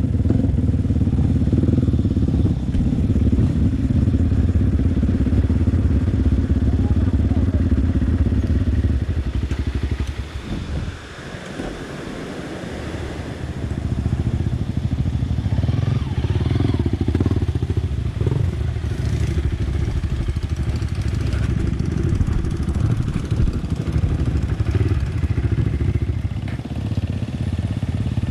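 Dirt bike engine running while riding. The engine noise drops off for a few seconds about ten seconds in, then picks up again.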